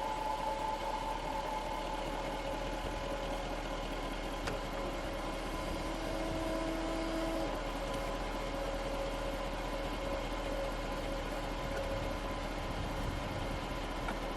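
Jaguar XKR's supercharged 5.0-litre V8 idling steadily.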